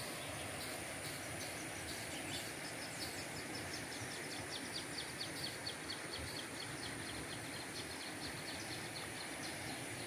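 Outdoor nature ambience: a steady background hiss with a thin, high, unbroken tone over it, and a bird calling a rapid run of short high notes, about five a second, from about two seconds in until a few seconds before the end.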